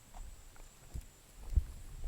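Footsteps on pasture ground: a few soft low thuds, the strongest about a second and a half in.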